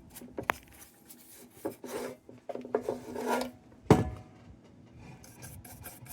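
Hands working on metal lantern parts: irregular scraping and rubbing with small clicks, and one sharp knock about four seconds in.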